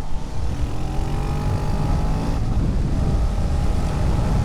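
650 motorcycle engine accelerating hard: its pitch climbs for about two seconds, drops at a gear change, then climbs again.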